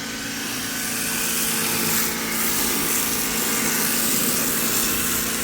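Ryobi electric pressure washer running with a steady motor hum while its foam cannon sprays with a hiss that grows louder over the first second or two.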